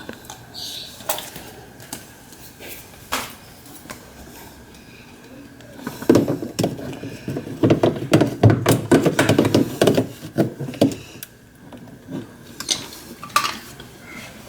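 Hand disassembly of a washing machine: scattered clicks and knocks of tools and parts, then a dense stretch of rattling, clanking handling from about six to eleven seconds in.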